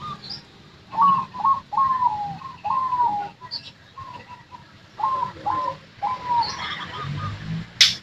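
Zebra dove cooing: two runs of short, slightly falling coos, a few notes each, with a short pause between the runs. A single sharp click comes near the end.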